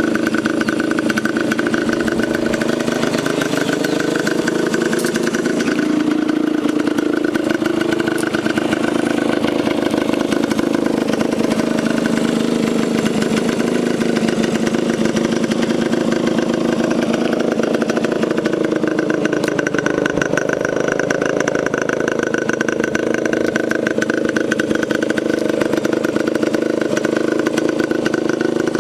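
A 1983 Yamaha RX50's 50cc two-stroke engine idling steadily, its pitch drifting up and down slightly a few times.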